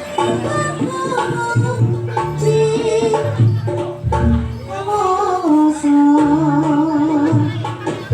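Live Javanese jaranan gamelan music: low drum strokes and jingling percussion under a wavering, vibrato melody line.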